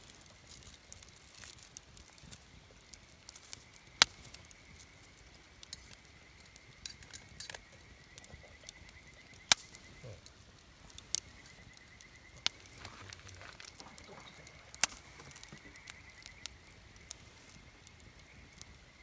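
Wood campfire crackling: sharp pops every second or two over a soft hiss. A faint, steady high trill runs underneath.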